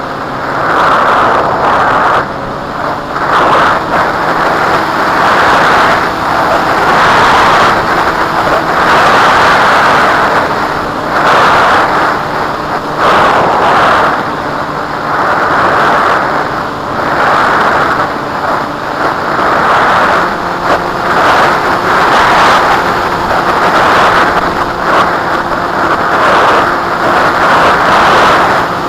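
Strong wind rushing and buffeting over the microphone, its loudness surging and dropping every second or two, with the faint steady drone of a flying wing's small motor and propeller underneath.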